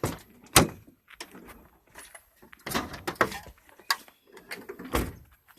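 A few sharp knocks and clicks with some rattling between them.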